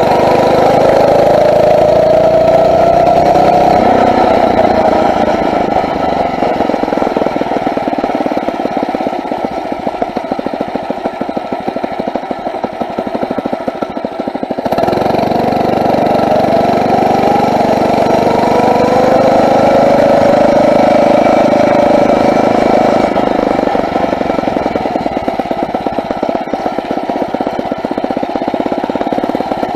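Four-stroke Phatmoto motorized-bicycle engine running under way, its pitch rising as it picks up speed in the first few seconds. It changes abruptly about halfway through, then climbs again.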